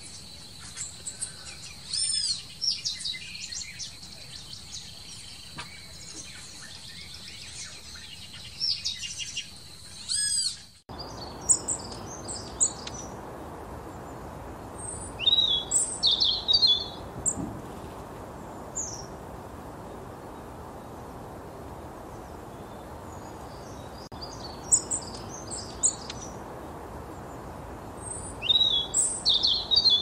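Small birds chirping and calling in short clusters of high, quick notes. About eleven seconds in, the background changes abruptly: a thin steady high tone under the calls gives way to a steady hiss, as one recording cuts to another.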